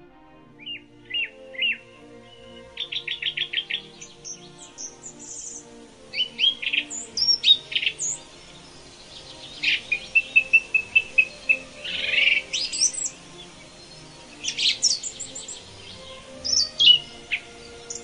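Several songbirds chirping and singing in short, quick phrases, including fast trills and runs of notes. Soft background music plays underneath.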